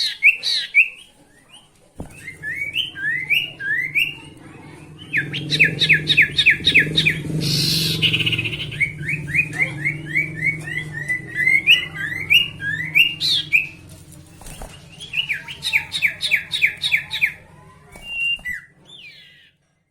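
A sirtu songbird singing in quick bouts of sharp, rising whistled notes, several a second, with short pauses between the bouts. This is the sirtu song that Indonesian bird keepers play to bring their own bird into song. A low hum runs under much of the middle, with a brief hiss about eight seconds in.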